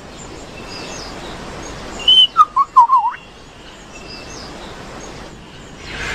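Male superb lyrebird singing: a short high whistle about two seconds in, then a quick run of warbling notes lasting about a second, over faint forest background.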